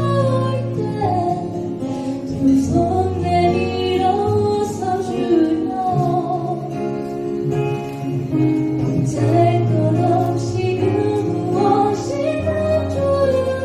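Live band music: female vocals singing a slow song over guitar and keyboard accompaniment.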